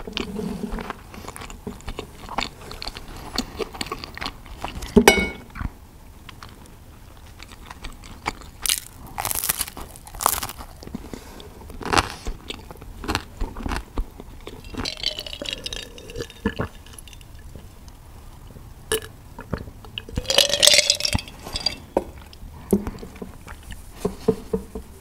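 Close-miked chewing and crunching of crisp pizza crust, with moist mouth sounds and irregular crackles. A few sharper clicks stand out, the loudest about five seconds in.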